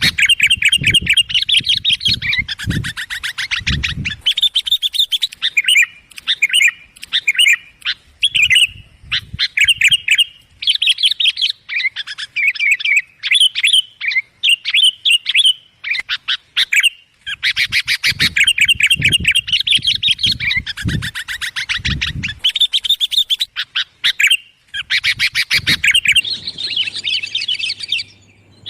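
Sooty-headed bulbuls (kutilang) calling loudly: rapid chattering trills and short bright phrases in bouts with brief gaps, as on a lure-call recording. Some low thumps sound under the bouts near the start and in the second half.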